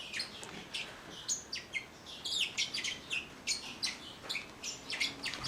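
Bourke's parakeets chirping: a rapid, irregular series of short, high chirps, some sliding up or down in pitch.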